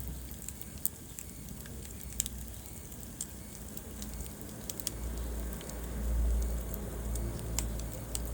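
Wood fire burning in a fireplace: scattered sharp crackles and pops over a steady low rumble of the flames, which swells for a couple of seconds in the second half.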